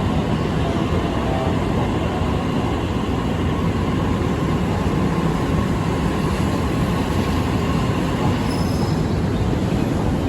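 E655 series electric train departing, its running noise steady and loud throughout, with faint high squeals about eight seconds in.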